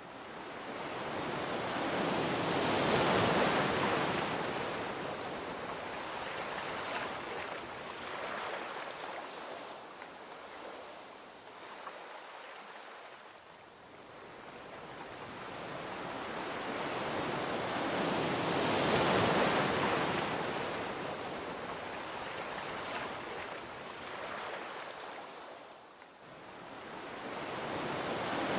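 Gentle ocean waves washing onto a beach: slow swells of surf that build, break and recede, two full waves over the stretch with a new one rising near the end.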